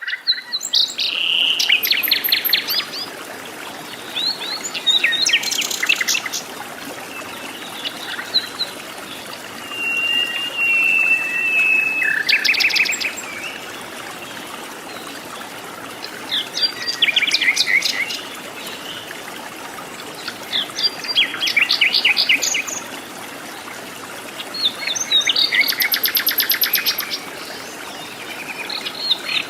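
Jungle birds singing: short phrases of fast, high repeated chirps come every few seconds, and a single held whistle sounds about ten seconds in. A steady faint hiss of forest background runs between the phrases.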